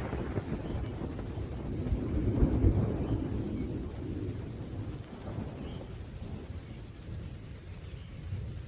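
Rolling thunder rumbling in a steady rain. The deep rumble swells about two and a half seconds in, then fades away while the rain keeps falling.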